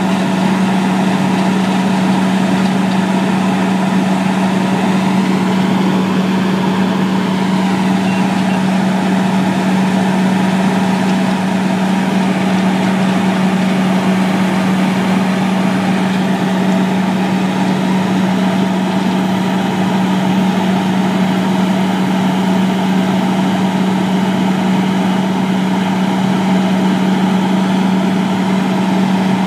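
An engine running steadily at a constant speed, a loud even hum with no change in pitch, typical of road-repair machinery working.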